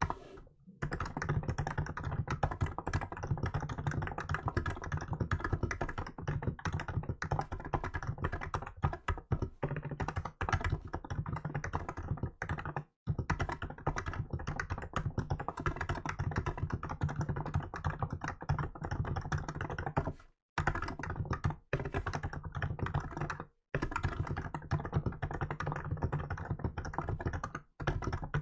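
Continuous fast typing on a Hansung GK868B electrocapacitive keyboard with milk keycaps, a dense run of soft thocking keystrokes with a few brief pauses.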